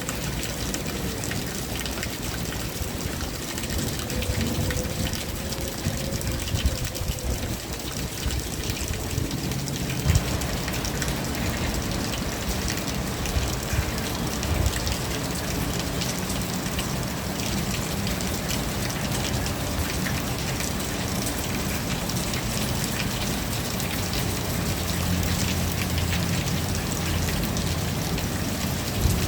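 Steady rain falling on surfaces, a continuous hiss dotted with drops. A deeper low rumble joins in about ten seconds in.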